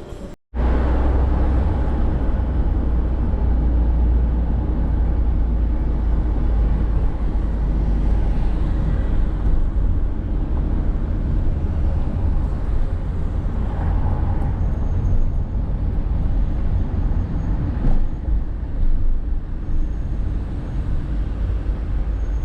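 Old Mercedes car driving in city traffic: a steady low rumble of engine and road noise, with traffic around it. It starts abruptly about half a second in.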